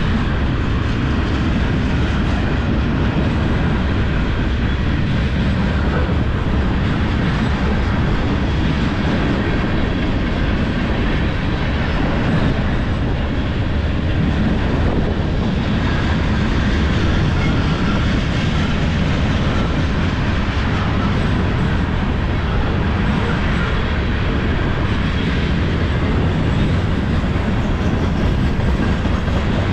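Freight train cars rolling steadily past at close range, among them loaded centerbeam lumber flatcars, a tank car and covered hoppers. Their steel wheels on the rails make a loud, deep, unbroken rumble.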